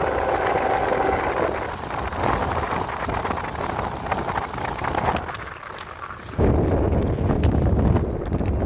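Train rumbling by with wind buffeting the microphone. A strong gust on the microphone comes in suddenly about six and a half seconds in and stops just before the end.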